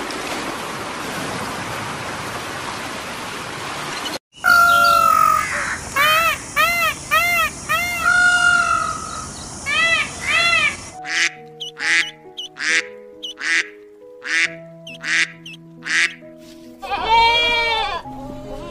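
A run of animal sounds. A steady rushing hiss like water goes for the first four seconds. After a brief gap come a series of loud, arched, repeated calls from an Indian peafowl, over a high steady buzz. Then a few seconds of music made of short notes, and near the end one sheep's bleat.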